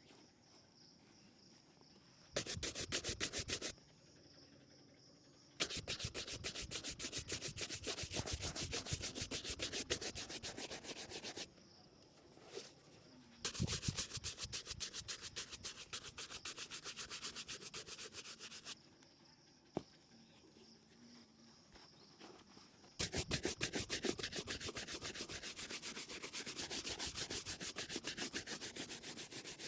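A leather shoe being buffed for a shine with rapid back-and-forth scrubbing strokes. The strokes come in four spells of a few seconds each, with short pauses between them.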